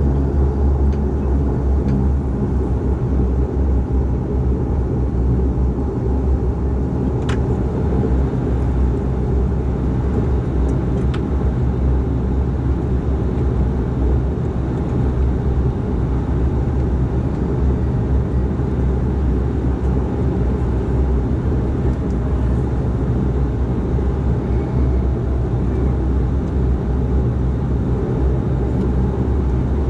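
Steady low-pitched drone heard inside the cabin of a DHC8-400 turboprop airliner, with a couple of faint clicks.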